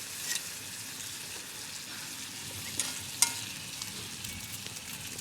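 Food sizzling as it fries, a steady hiss, with a few sharp clicks and taps, the loudest about three seconds in.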